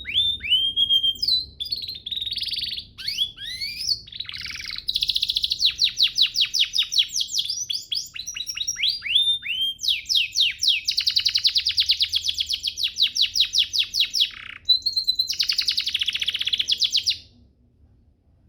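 Domestic canary singing a long, fast song of rapid trills and sliding chirps, which stops abruptly near the end.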